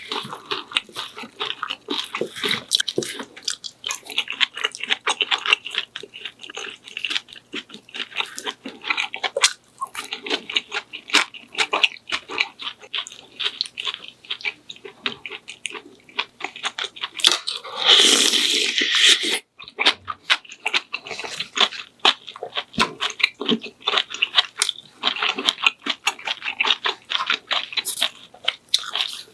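Close-miked eating: steady wet chewing and crunching, with a louder noisy stretch of about two seconds a little past the middle.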